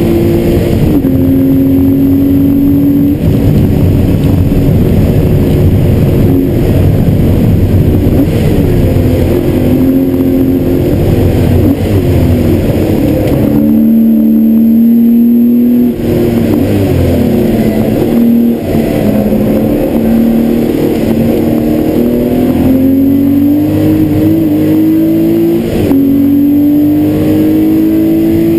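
Porsche 993 Carrera 4's air-cooled flat-six heard from inside the stripped cabin at full effort on track. The engine note climbs under acceleration and steps down at several gear changes, over steady tyre and wind noise.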